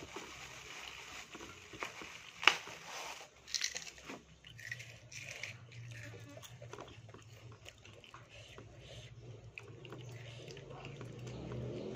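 Crunching and chewing of crispy fried grasshoppers, a scatter of short crackles with one sharp loud crack about two and a half seconds in. A faint steady low hum runs underneath.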